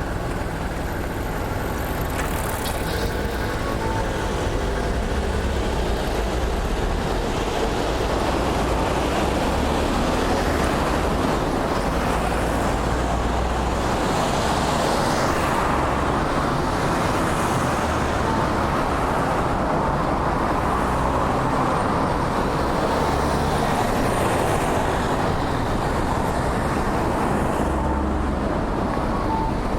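Steady road traffic: motor vehicles passing on a busy road, as a continuous rushing noise that swells and eases a little as vehicles go by.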